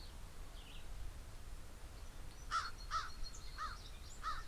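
Birds calling outdoors. About halfway in, one bird gives four short, repeated calls in quick succession, while fainter high chirps come from other birds.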